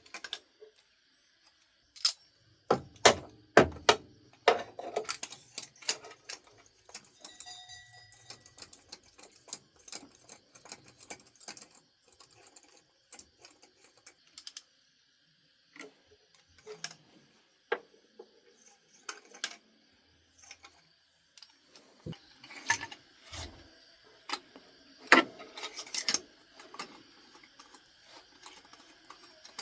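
Metal hand tools and car parts clinking and clanking in irregular knocks and jangles, typical of hands-on work on a car, with the loudest clusters near the start and again near the end.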